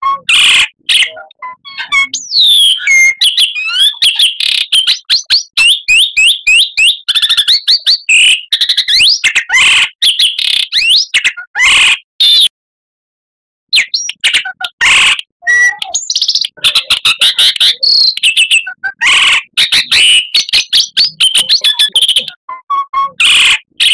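Oriental magpie-robin (kacer) singing loudly: a fast, varied song of clear whistles, quick sweeping notes and rapid chattering strokes. It breaks off for about a second and a half a little past halfway, then picks up again.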